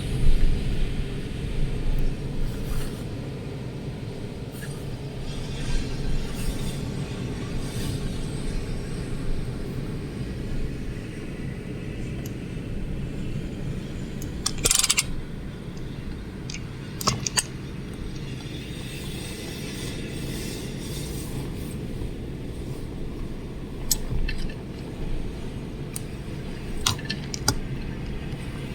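Strong storm wind rumbling on the microphone, with scattered sharp clicks and taps now and then.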